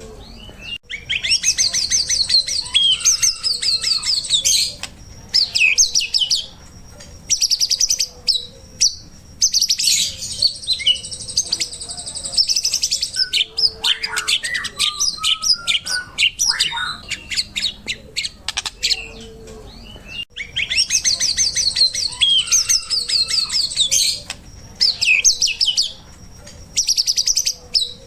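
White-rumped shama (murai batu) singing loudly: long bursts of fast, high trills and whistles, broken by shorter whistled notes. The same song phrases come back about every ten seconds.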